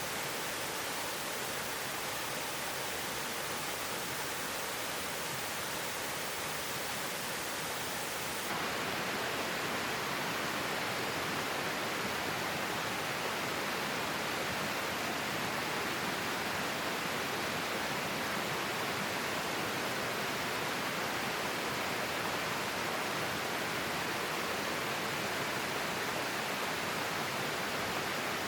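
Flowing stream water, a steady rushing babble. About eight seconds in the sound changes abruptly and turns slightly louder and fuller.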